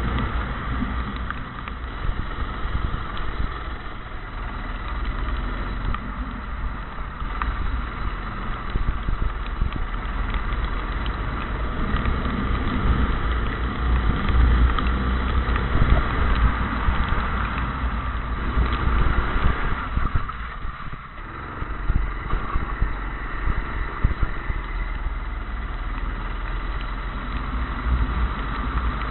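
Go-kart engine running at racing speed, its note rising and falling, with a brief dip in level about twenty seconds in.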